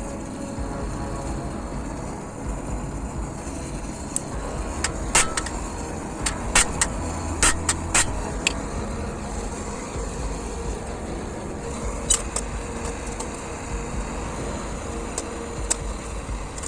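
Hammer blows on a warped metal fire-pit grate that is being beaten straight: about a dozen sharp strikes, mostly bunched together about four to eight seconds in, then a few single ones later. Under them runs a steady low rushing noise.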